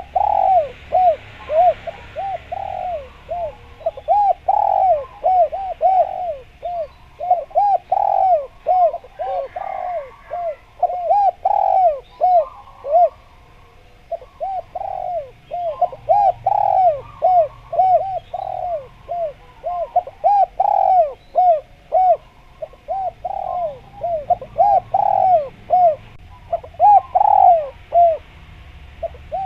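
Spotted dove cooing over and over, loud phrases of short arched coos separated by brief pauses.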